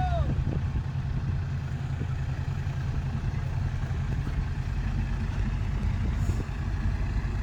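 Dump truck's diesel engine running steadily at low revs.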